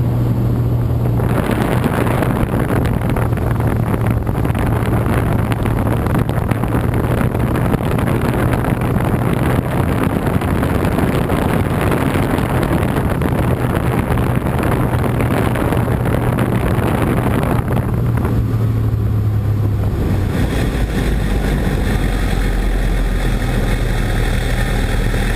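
Cessna 172's piston engine and propeller running in flight: a loud, steady drone over a wash of rushing noise. About twenty seconds in, the sound changes to a deeper drone.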